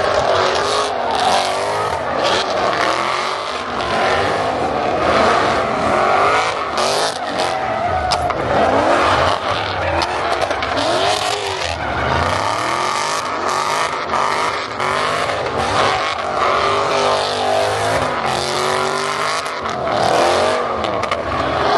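Car engines revving hard, their pitch rising and falling over and over, with tyres squealing and skidding during burnouts and donuts.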